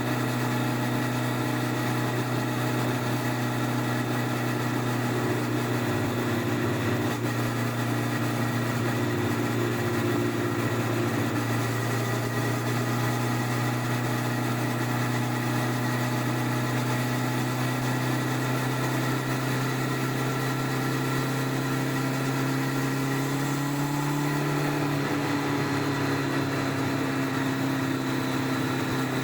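Stock-exhaust 1999 Honda CBR1100XX Blackbird inline-four engine running at a steady speed, heard from under the seat. Its pitch rises slightly and eases back near the end.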